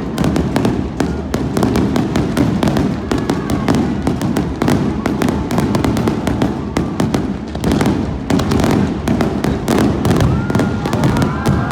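Fireworks display: a dense, continuous barrage of rapid bangs and crackles. Some wavering high-pitched tones join in near the end.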